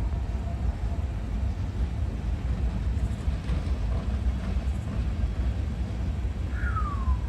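Steady low rumble of a Norfolk Southern freight train's diesel locomotives.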